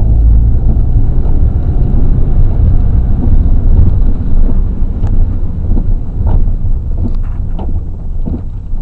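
Wind buffeting the microphone in the rain: a loud, steady low rumble, with a few scattered sharp ticks.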